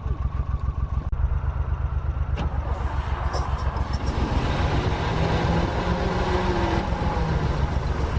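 Chevrolet C70 dump truck's engine being started after priming with a little fuel: a steady, fast low pulsing that grows louder about a second in and again about four seconds in.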